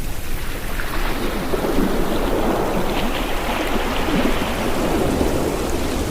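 Ocean surf: a wave surges in and washes up over a steady low rumble. It builds about a second in and eases near the end.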